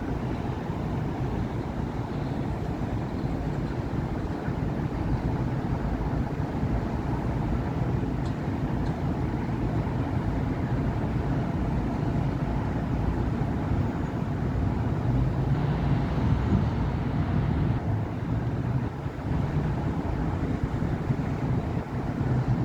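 Steady road traffic on a busy city avenue: car and bus engines and tyres running in a continuous rumble. A deeper, steady engine hum joins near the end.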